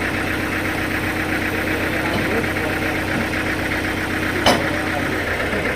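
Sawmill machinery's engine running steadily, with one sharp knock about four and a half seconds in.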